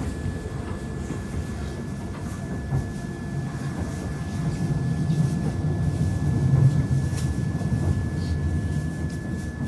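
Train running, heard from inside the carriage: a steady low rumble from the wheels on the track, with a thin steady high whine.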